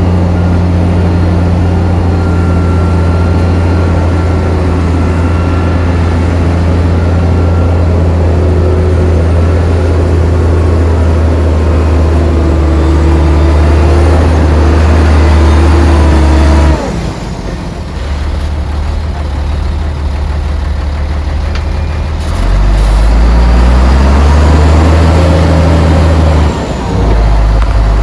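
Heavy diesel engine of earthmoving machinery running steadily under load. It drops off suddenly a little past the middle, then revs back up with rising pitch a few seconds later, dips briefly near the end and picks up again.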